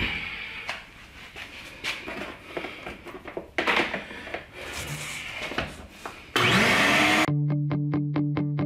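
Clatter and knocks of things being handled, then a shop vac switched on, its motor whine rising as it spins up; this is the loudest sound. After about a second it cuts off suddenly into guitar music with evenly repeated plucked notes.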